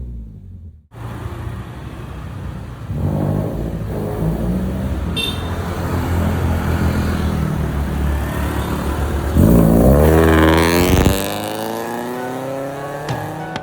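Mitsubishi Xpander's four-cylinder engine running through an aftermarket full-system exhaust with a 4-2-1 header, resonator and Pro-Street muffler. It sets in about a second in with a steady deep note that slowly grows louder. Near the end it gives one sharp rev that rises and falls back.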